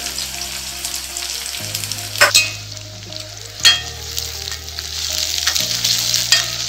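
Sliced onions, green chillies, garlic and ginger sizzling in hot oil in a kadai as they are sautéed for a masala, stirred with a spatula that knocks and scrapes against the pan a few times, twice close together about two seconds in and once more near the middle. Soft background music with sustained low chords runs underneath.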